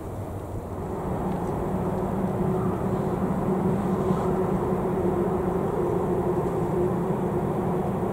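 Diesel-electric freight locomotives running past: a steady engine drone with a strong hum, growing louder about a second in and then holding.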